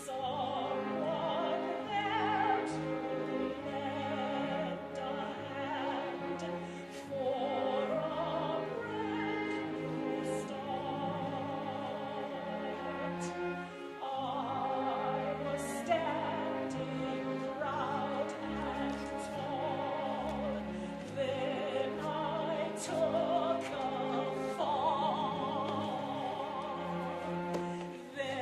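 Opera singing with vibrato over instrumental accompaniment, continuing without a break.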